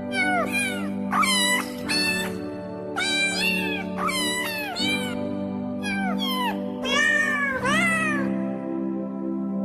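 A cat meowing over and over, a string of short rising-and-falling meows about two a second, over background music with held low notes.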